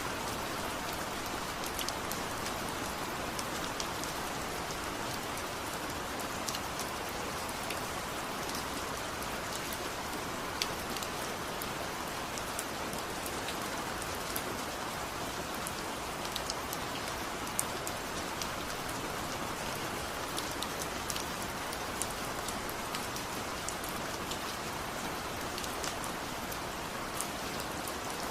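Steady rain falling as an even hiss, with scattered light ticks of drops throughout.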